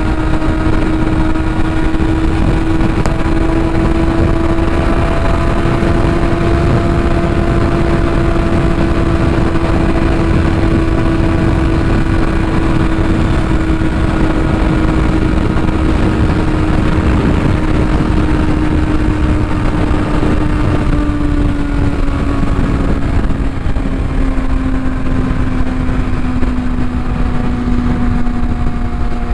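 Kawasaki ZX-6R inline-four sport bike with a Yoshimura exhaust, ridden at steady revs. The engine note eases down in pitch from about two-thirds of the way in. Wind noise rumbles on the helmet-mounted microphone throughout.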